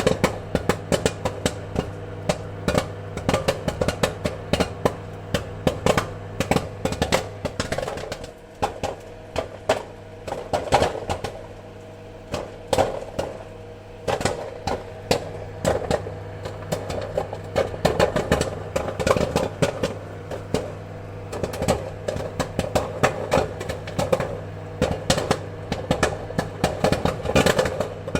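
Popcorn kernels popping in quick, irregular bursts of sharp pops, thicker in some stretches and sparser in others, over a steady low hum.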